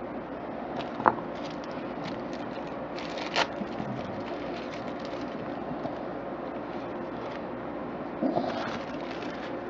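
A few sharp clicks and knocks of computer hardware being handled: one about a second in, a louder one a little past three seconds, and a short cluster near the end. A steady low hum runs underneath.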